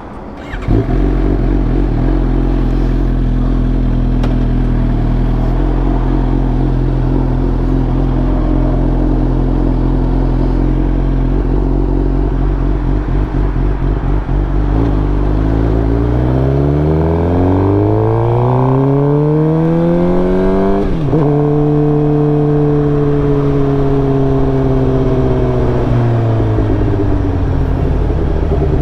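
Suzuki GSX-R 750 inline-four engine through a new M4 full exhaust, idling steadily, then revved in one long smooth climb that drops off sharply about twenty seconds in. It hangs at higher revs for a few seconds, then settles back toward idle near the end.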